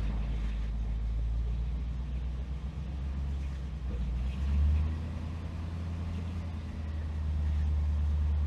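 1965 Ford Thunderbird's 390 V8 running in gear with the rear wheels off the ground, being throttled up towards 25 mph for a cruise-control test. The revs swell briefly about halfway through, then rise and hold at a higher steady speed near the end.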